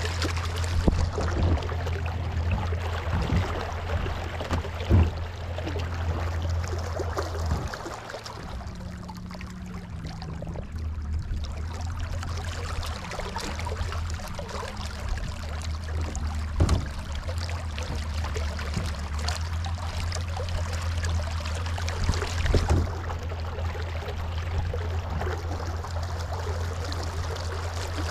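Water rushing and splashing along a kayak hull over a steady low hum, with a few short knocks against the hull.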